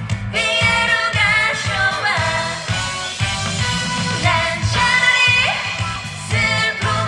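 A female trot singer singing live over an amplified backing track, part of an encore medley of 1970s–80s Korean songs.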